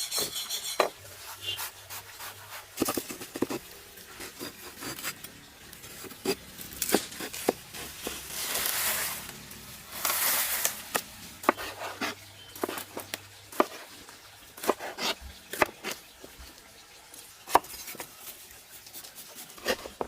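Knife and utensils clicking and knocking against dishes and a cutting surface as fruit is cut up, with irregular taps throughout and two short scraping sounds around the middle.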